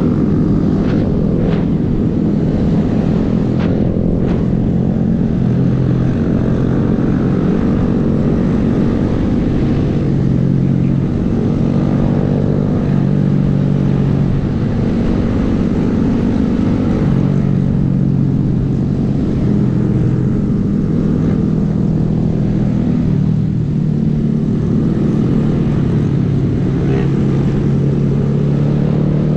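Small Honda 125 cc single-cylinder motorcycle engine running under way, its pitch shifting up and down a few times with throttle and speed.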